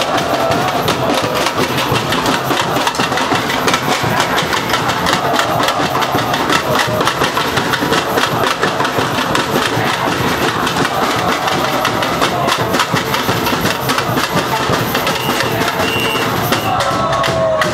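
Samba bateria drumming: massed percussion playing a fast, steady, unbroken rhythm.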